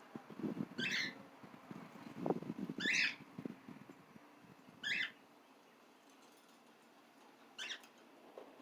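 Small pet parrot chirping: four short, high, wavering calls about two seconds apart. Low rustling and knocking under the first two calls.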